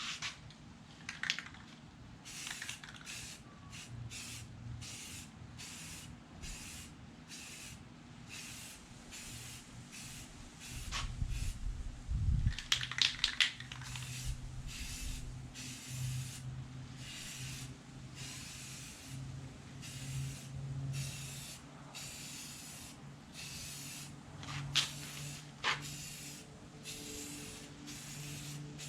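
Metal primer being sprayed onto an aluminum boat hull in short, repeated hissing bursts, a little more than one a second. A louder, fuller burst of noise comes about twelve seconds in.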